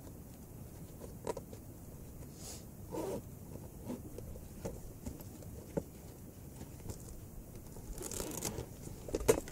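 Gear being rummaged through in bags in the back of a truck: scattered light knocks and scrapes, with a busier stretch of rustling and clatter near the end.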